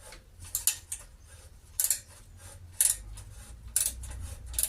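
Sharp metallic clinks, about one a second, from a steel hand tool working a tight, seized manifold nut on a side-valve engine.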